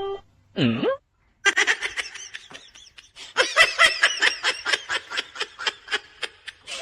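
Laughter in a long run of quick, short bursts, starting about a second and a half in, with a brief swooping tone just before it.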